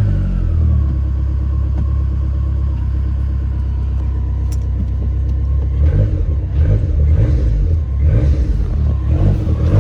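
2005 Dodge Neon SRT-4's turbocharged 2.4-litre four-cylinder just after a cold start, idling steadily, then revved in a series of short throttle blips from about six seconds in, with the stock blow-off valve venting with a whoosh as the throttle snaps shut.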